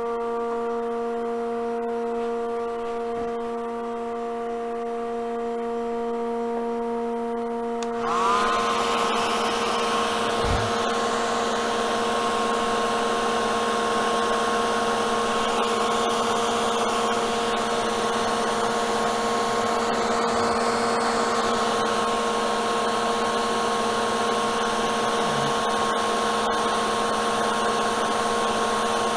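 Lathe and vacuum-chuck setup running with a steady machine hum. About eight seconds in, a hand-held dryer switches on and blows steadily with a rush of air and a whine, drying fresh paint on the turning bowl.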